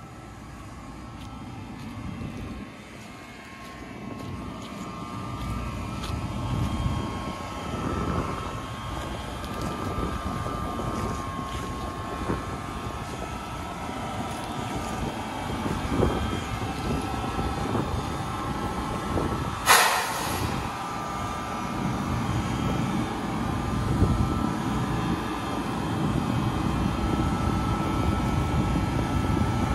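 New Jersey Transit push-pull train rolling slowly over a grade crossing, a steady rumble that grows louder as the ALP-46A electric locomotive pushing at the rear draws near. Its hum carries a few steady tones. About two-thirds of the way through comes one brief loud hiss.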